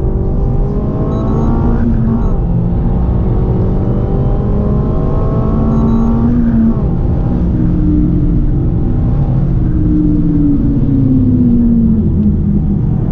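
Mégane RS 280's turbocharged four-cylinder engine heard from inside the cabin under hard acceleration. The pitch climbs, breaks briefly for an upshift about two seconds in, and climbs again. About six and a half seconds in the driver lifts off, and the engine note drops and falls further near the end as the car slows, over steady tyre and road rumble.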